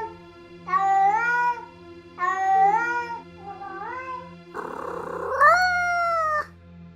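Domestic cat meowing: three rising meows, then a longer, louder one that starts with a harsh, noisy rasp.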